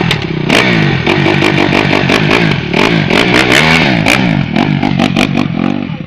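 Motocross dirt bikes on the track, engines revving hard with the pitch rising and falling over and over as riders shift and throttle, several bikes overlapping, with sharp cracks and pops throughout.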